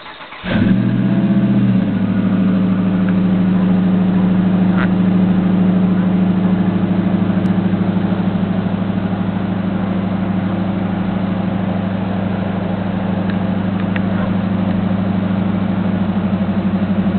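Dodge Ram 1500 pickup started from cold through loud exhaust pipes. The engine catches within the first second and flares briefly. It then settles into a steady, loud cold idle.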